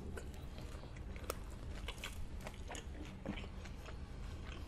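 Close-miked chewing of a birria queso taco: wet mouth sounds with many small scattered clicks as the crisp fried tortilla and meat are chewed.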